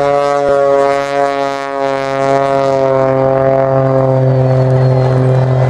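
Display aircraft flying past, a loud steady engine drone whose pitch sinks slowly as it goes by.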